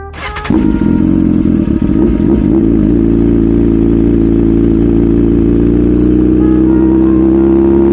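BMW S1000RR's inline-four engine coming back on the throttle about half a second in, then pulling steadily with its note climbing slowly as the bike accelerates.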